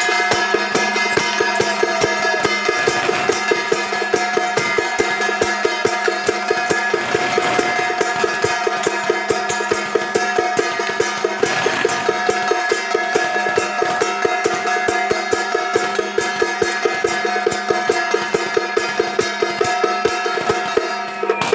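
Traditional Taiwanese procession percussion: a drum beaten in a fast, even rhythm of about three or four strikes a second, under steady ringing tones from gongs or other instruments.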